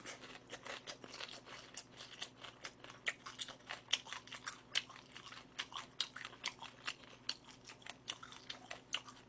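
A person chewing crunchy fried battered pork (tangsuyuk) close to the microphone: irregular wet crunches and mouth clicks, several a second.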